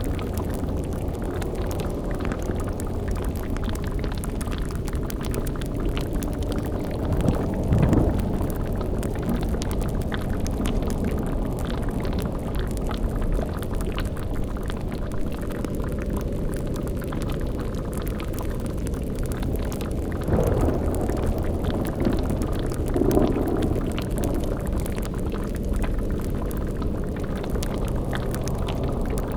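Layered spooky ambience: a steady low drone with bubbling liquid like a boiling cauldron. Louder low surges rise out of it about 8 seconds in, again around 20 seconds and once more about 23 seconds in.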